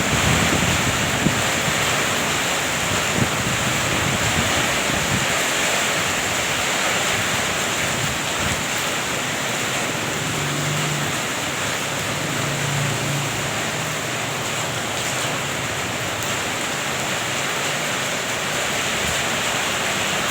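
Heavy rain falling steadily with wind, a continuous even hiss with no breaks.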